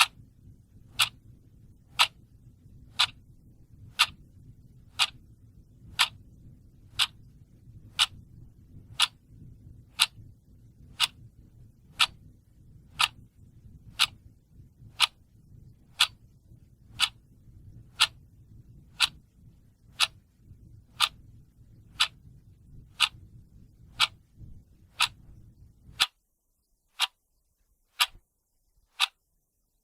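Clock ticking steadily, one sharp tick a second, over a faint low hum that cuts off about 26 seconds in.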